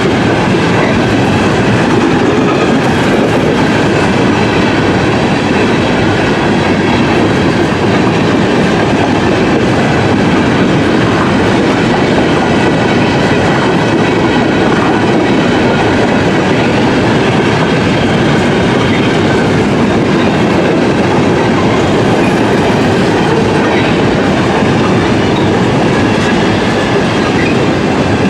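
Train cars rolling past at close range, a steady, unbroken rumble of wheels running on the rails.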